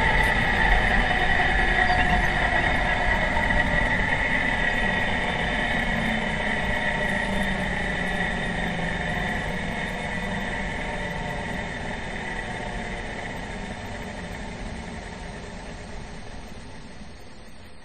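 Pro Stock drag car running at low speed, heard on board: a steady mechanical drone with a prominent high whine, slowly fading away.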